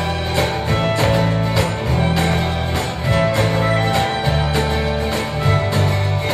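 Live band playing the opening of a song at full volume: guitar and bass over a steady, even beat, with the whole band coming in together just before.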